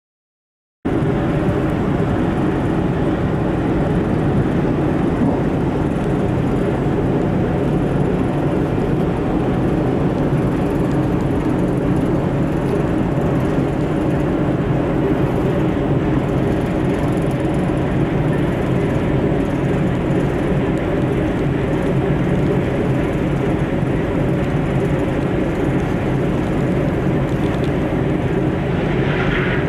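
Steady drone of a ferry's engines, a low hum with several held tones, starting abruptly about a second in and running unchanged.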